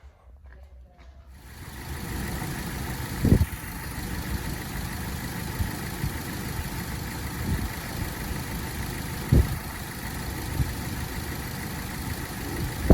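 2015 Mazda MX-5 Miata's 2.0-litre four-cylinder engine coming up to a steady idle about a second and a half in. It runs evenly, with three short, louder low pulses along the way.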